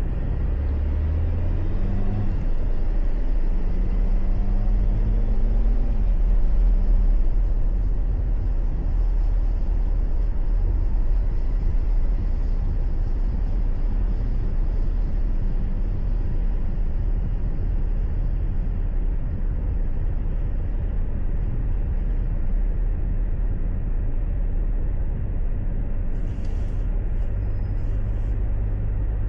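Car cabin noise while driving: a steady low rumble of engine and tyres on the road. About two seconds in, the engine note rises for a few seconds as the car picks up speed.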